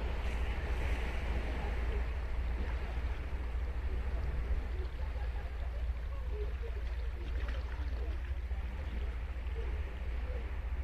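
Ocean waves breaking and washing up a sandy beach, a continuous rushing surf, over a steady low rumble of wind on the microphone.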